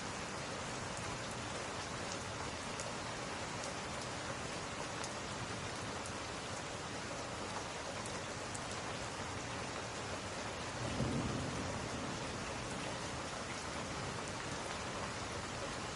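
Steady rain pattering on window glass, with a few faint sharp crackles from a wood fire. About eleven seconds in, a brief low rumble of thunder swells and fades.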